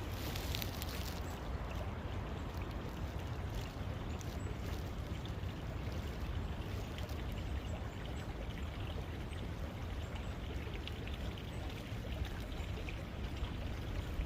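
A forest brook babbling steadily, water running over stones with a constant rushing trickle.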